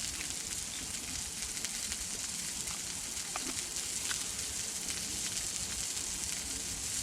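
Burger patty sizzling over a campfire: a steady high hiss with a few faint crackles.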